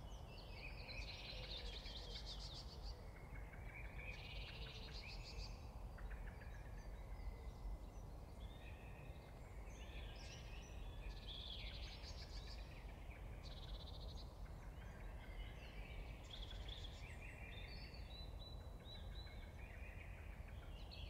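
Faint chorus of songbirds singing and calling, with many short chirps and trills overlapping, over a steady low outdoor rumble.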